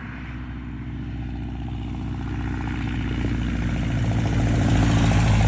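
A vehicle engine running and getting steadily louder, as if approaching or speeding up.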